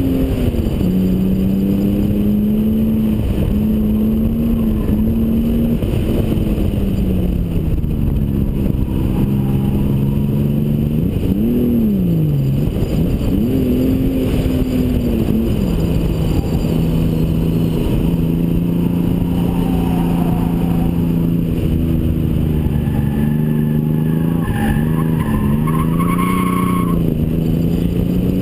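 Toyota Supra twin-turbo straight-six running hard on track, its note rising and falling with throttle and gear changes, with a quick rise and drop about twelve seconds in. Heavy wind rush on the outside-mounted camera, and a brief high squeal a few seconds before the end.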